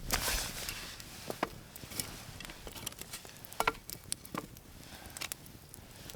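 Irregular sharp snaps and cracks of twigs and brush on the forest floor, several scattered over a few seconds, with a faint hiss between them.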